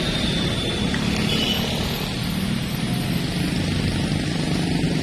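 Vehicle engines running steadily on the road, a continuous low rumble of traffic.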